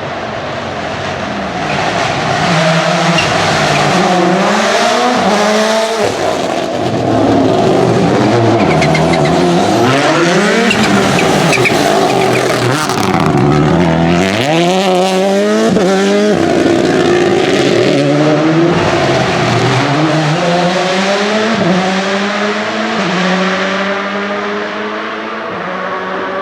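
Rally car engines revving hard, the pitch climbing and then dropping again and again through gear changes and lifts as the cars drive the stage.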